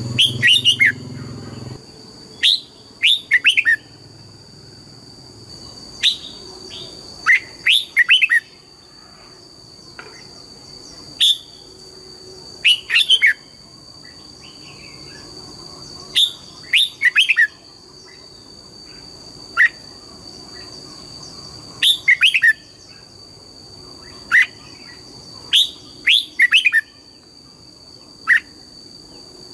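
Red-whiskered bulbul singing: short, quick phrases of sweeping whistled notes, repeated every one to three seconds, over a faint steady high-pitched whine.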